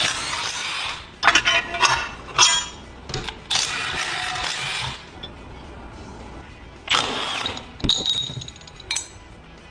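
Metal parts and tools clinking and rattling as covers and parts are taken off a Predator Ghost small engine, with three noisy bursts about a second long between clusters of sharp clanks.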